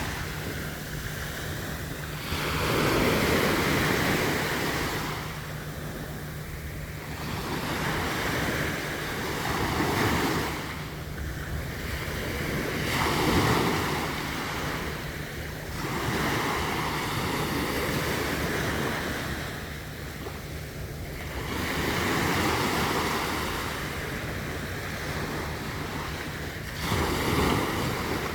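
Gentle sea waves breaking and washing up on the beach, the rush swelling and fading in slow surges every few seconds.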